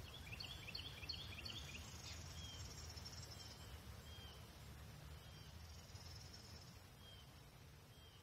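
Faint birdsong: a quick run of short chirps in the first second and a half, then single short down-slurred notes repeating about once a second, with a thin high trill now and then, over a low outdoor rumble.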